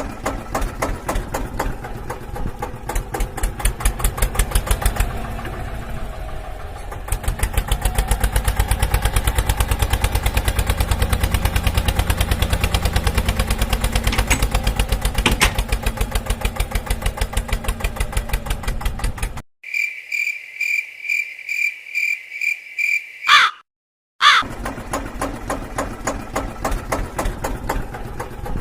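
Motor of a homemade mini tractor running with a fast, even pulsing. About two-thirds of the way through it breaks off for a few seconds of a steady high-pitched tone pulsing a few times a second. After that the motor sound returns.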